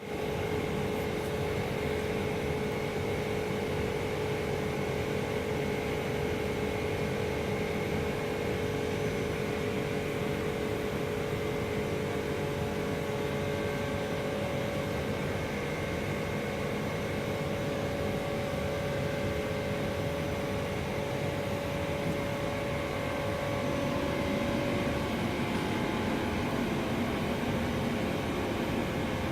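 A small engine running steadily with an unchanging note, its sound shifting slightly about 24 seconds in.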